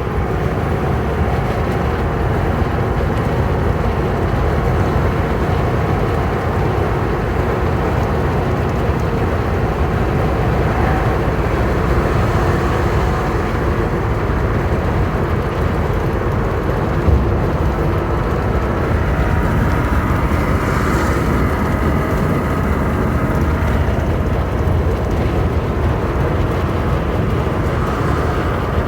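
Steady highway traffic noise: a low rumble of tyres and engines with no single vehicle standing out.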